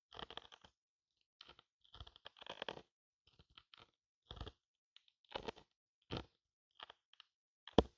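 Broken hard-candy lollipop pieces being handled: a run of short, irregular crunches and clicks, the sharpest one near the end.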